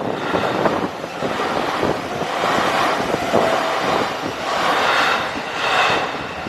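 JR Nambu Line electric commuter train running past a level crossing: a steady rush of wheels on rail that swells twice, with a thin high whine about five seconds in.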